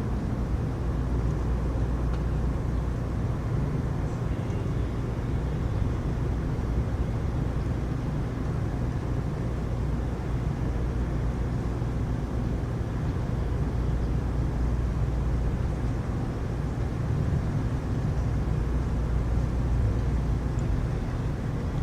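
Heavy rain falling steadily, an even rushing noise with a low, constant rumble underneath and no distinct claps or strikes.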